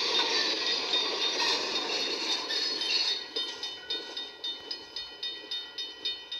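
Amtrak train running past on the rails, its noise dying away after about three seconds, with a railroad crossing bell ringing steadily about twice a second.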